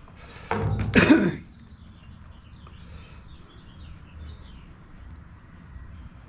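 A man clears his throat once, about a second in. Then only a low room hum with faint small rustles and ticks from handling parts.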